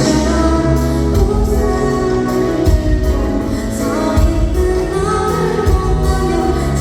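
A female voice singing a pop song live over a band, with heavy bass and a steady drum beat.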